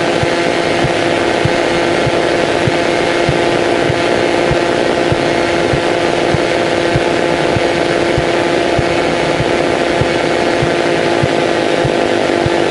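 Cessna 152's four-cylinder piston engine and propeller running steadily, heard from inside the cockpit.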